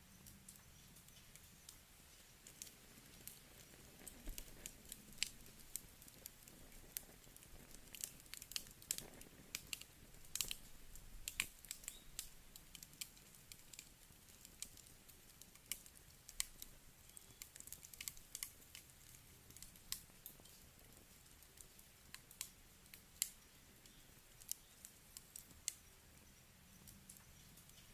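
Wood campfire crackling: irregular sharp pops and snaps from the burning wood over a faint steady hiss, most frequent around ten seconds in.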